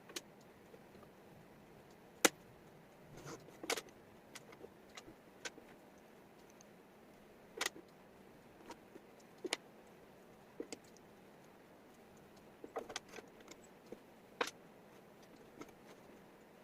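Wooden jigsaw puzzle pieces clicking and tapping against each other and the table, in scattered irregular clicks with a sharp one about two seconds in.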